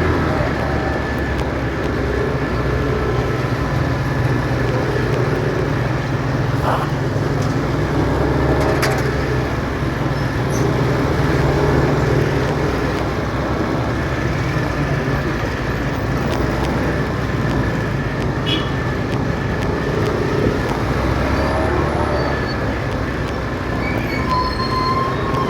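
Steady noise of a motorcycle riding through city traffic: a constant low engine hum under road and traffic noise, with a few faint high tones and ticks.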